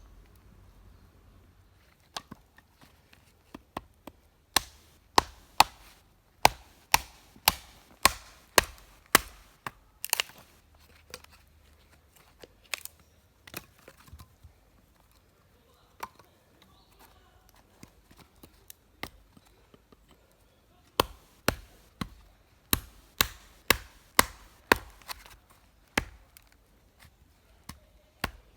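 Wood being chopped or split with a blade: sharp, repeated strikes at about two a second, in two runs separated by a pause of several seconds.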